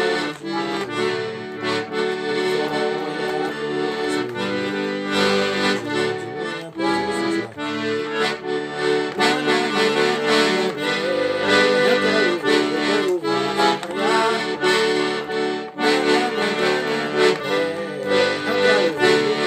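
Accordion playing an instrumental forró melody over chords, at a steady moderate loudness.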